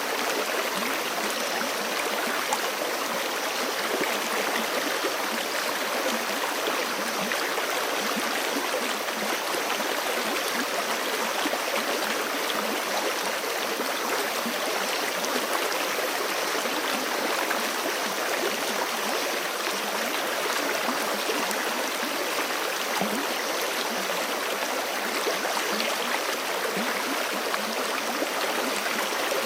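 Forest creek running steadily, a continuous rush and babble of flowing water.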